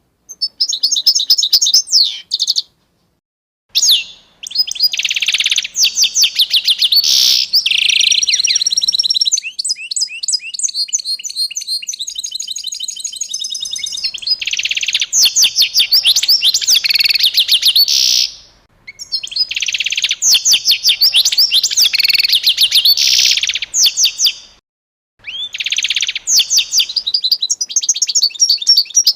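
Songbird singing long, rapid trilled phrases of high chirps, broken by short silences; a softer, faster trill runs between phrases about a third of the way in.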